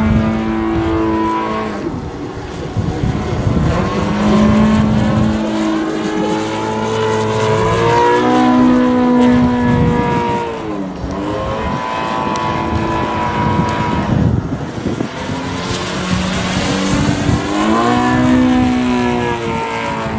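YS TZ240 four-stroke boxer glow engine of a large radio-controlled aerobatic plane in flight, running loud with its pitch swinging up and down several times as the throttle changes and the plane passes by.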